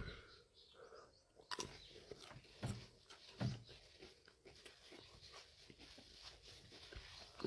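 Faint close-up chewing and mouth clicks of a man eating Carolina Reaper chilli peppers, with a few soft low thumps about one and a half, two and a half and three and a half seconds in.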